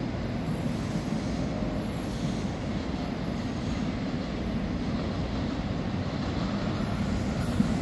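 CPTM electric commuter train pulling away down the track, a steady low running noise of wheels on rails.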